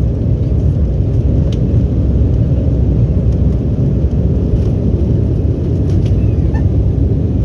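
Cabin noise inside an Embraer E190 airliner in flight: the steady low rumble of its turbofan engines and rushing air, heard from a window seat.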